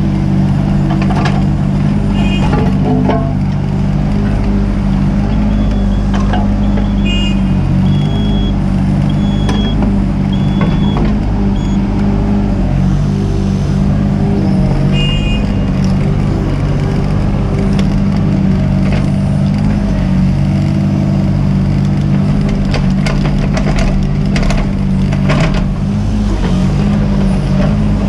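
Mini excavator's diesel engine running steadily under working load, its pitch shifting slightly as the hydraulics work, with scattered knocks and a few short high squeals from the machine at work.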